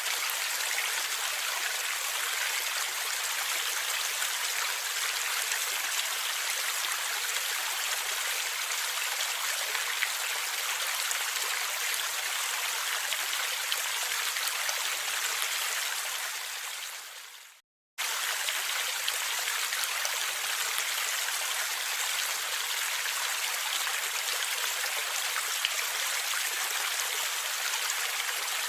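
Stream water flowing and gurgling steadily, a dense hiss with small splashes. About two-thirds of the way through it fades out to a moment of silence, then starts again abruptly.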